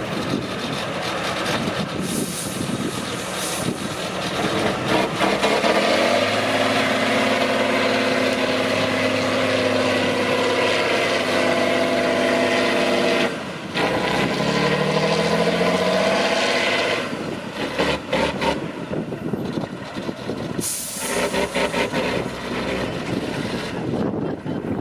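Heavy off-road truck engine working hard, held at steady high revs for several seconds, then revving up again after a short break. Short hisses of air sound near the start and about three-quarters of the way through.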